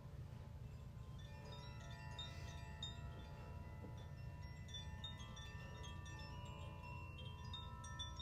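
Chimes ringing, many overlapping long-ringing notes struck at random moments, with more high strikes from about halfway through, over a steady low hum.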